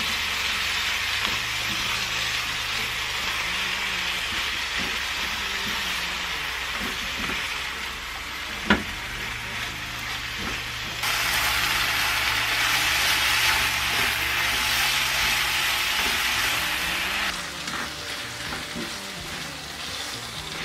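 Eggplant, shrimp and chili sauce sizzling as they are stir-fried in a pan and stirred with a spatula. There is a single sharp click about nine seconds in, and the sizzle is louder and brighter from about eleven to seventeen seconds.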